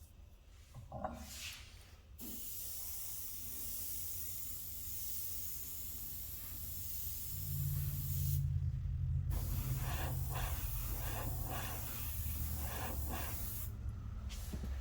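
Airbrush spraying paint with a steady hiss. It starts a couple of seconds in, cuts off for about a second near the middle, then resumes. A low hum runs underneath in the second half.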